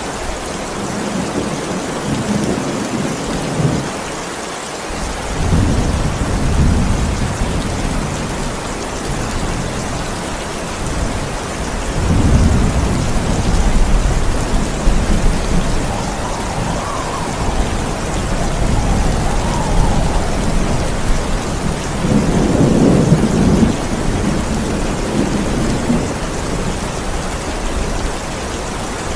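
Steady heavy rain with thunder rolling in low, deep rumbles three times, each swelling and fading over a few seconds.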